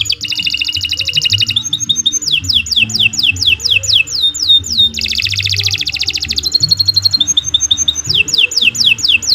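Domestic canary singing a long, unbroken song. Fast rattling trills alternate with runs of quick down-slurred whistles, about four a second, and there is a short held note about seven seconds in.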